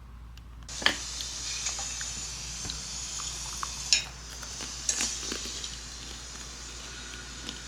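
Food frying in a pan: a steady sizzle starts suddenly about a second in, with a few sharp clinks of a utensil against cookware.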